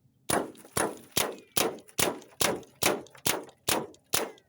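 Hatsan Invader .25 semi-automatic PCP air rifle fired in rapid succession, about ten shots a little over two a second. Each is a sharp crack with a short ringing tail.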